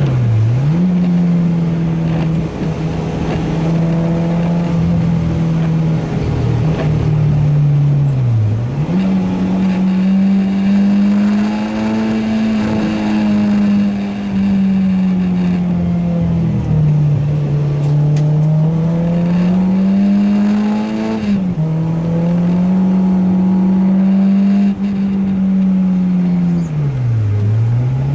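Renault Sport Clio 2 RS's 2.0-litre four-cylinder engine running hard at high revs on track, the engine note rising and falling steadily through the corners. Three times the revs dip sharply and pick straight back up, with another sudden drop in revs about two-thirds of the way through.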